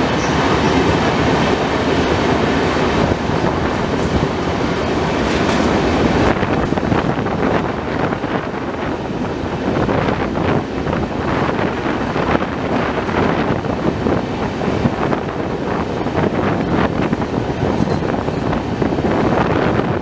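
Passenger train running along the track, a steady rumble of the moving coaches with the wheels clattering on the rails.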